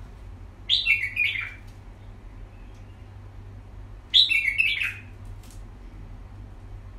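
A small bird chirping in two short bursts, about a second in and again about four seconds in, over a steady low hum.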